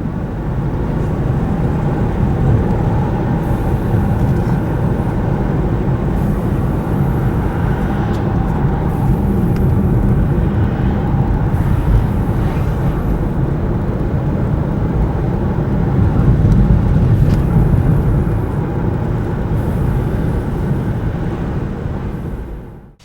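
Loud, steady low rumble of a vehicle, cutting off abruptly near the end.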